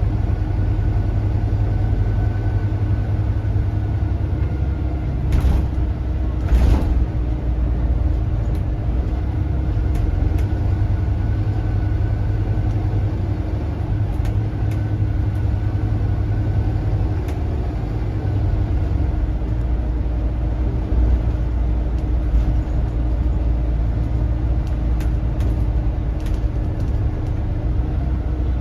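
Volvo B7RLE bus's turbocharged six-cylinder diesel engine running under way, heard from inside the bus: a steady low rumble with a faint turbo whistle that rises and falls. Two sharp knocks stand out about five and seven seconds in.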